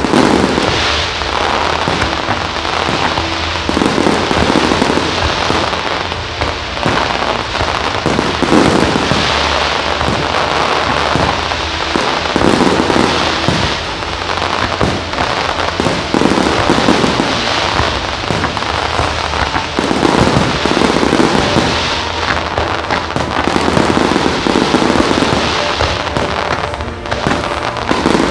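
Aerial fireworks display: a continuous barrage of shell bursts booming every second or two, with dense crackling between them.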